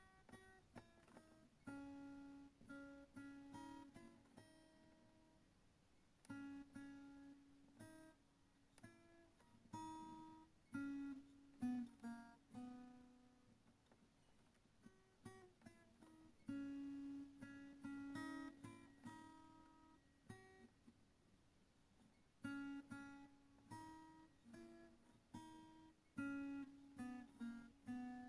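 Soft acoustic guitar music: plucked notes in short phrases, with brief pauses between them.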